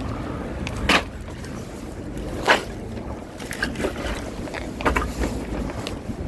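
Wind rumbling on the microphone, with a few sharp knocks. The two loudest come about a second in and two and a half seconds in, followed by lighter clicks.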